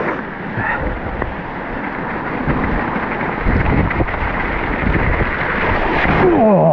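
Wind rushing over the microphone and the mountain bike rolling over the wet trail at speed, the noise building near the end as the bike drops into deep water. A man's exclamation starts just before the end.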